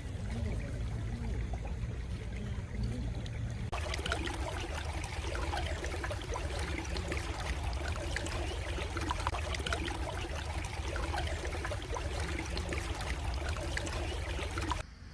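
Stream water running and trickling in a steady rush. About four seconds in it changes abruptly to a brighter, fuller babbling of running water, which drops away just before the end.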